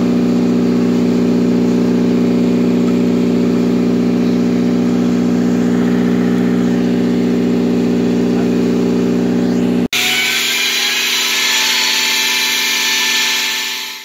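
An engine running steadily at constant speed. About ten seconds in, an edit switches to a brighter, higher machine whine with hiss, which fades out at the end.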